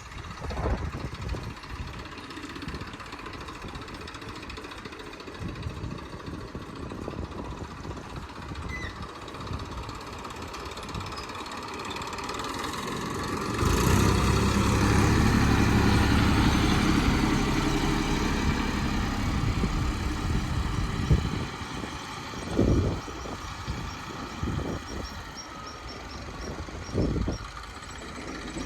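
Heavy diesel engine running, rising sharply to a hard rev under load about halfway through for several seconds, then settling back, with a few short knocks near the end.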